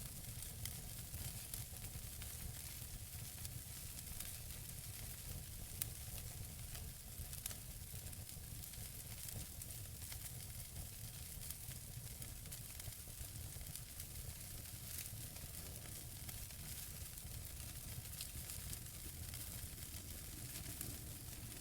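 Wood fire burning in a fireplace: a steady hiss over a low rumble, with scattered small crackles from the burning logs and a couple of sharper pops, one about six seconds in.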